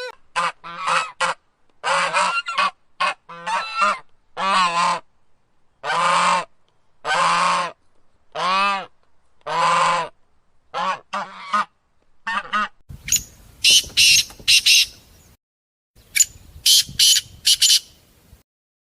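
A goose honking over and over in a long series of short and longer honks. About thirteen seconds in it cuts abruptly to a different bird's high, rapid squawking calls.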